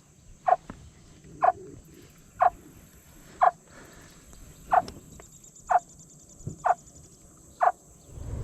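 Alligator calling by a hunter: eight short, chirping calls, about one a second, sounded to lure a bull gator to the surface.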